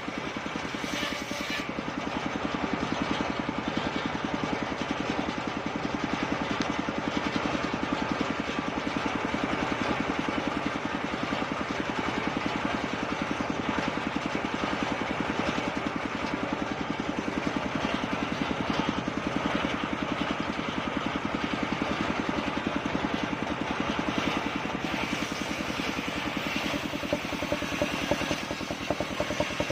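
Engine of a homemade circular sawmill rig running steadily at an even speed.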